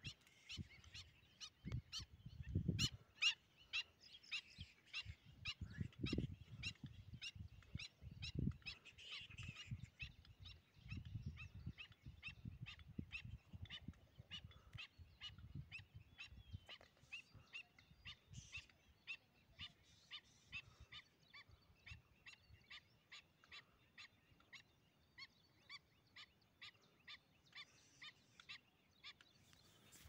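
A bird call of short, sharp high notes repeated evenly about two or three times a second, faint, with low rumbling bursts on the microphone in the first half.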